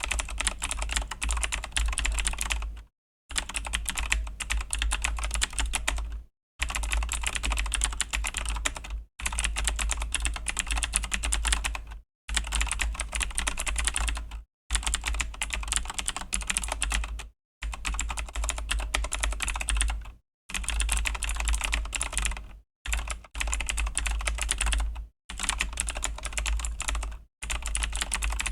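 Fast continuous typing on a Razer BlackWidow V3 mechanical keyboard with Razer Green clicky switches, dense key clicks broken by brief pauses about every two and a half to three seconds.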